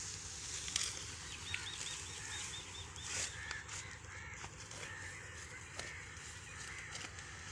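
Several birds calling: many short, arching calls, with a quick run of about seven a second and a half in, over a steady low rumble.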